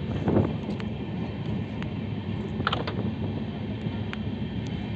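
Amrit Bharat Express passenger coach running on the rails, heard from an open window: a steady running noise with occasional short clicks from the wheels and track.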